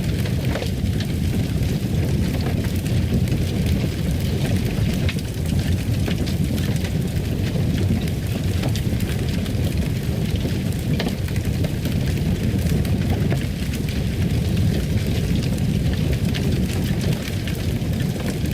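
Fireplace fire burning: a steady low rumble with scattered crackles and pops.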